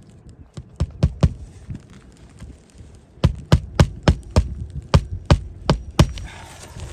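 Hammer blows on a shingle roof: a few scattered strikes, then from about three seconds in a steady run of about ten, roughly three a second.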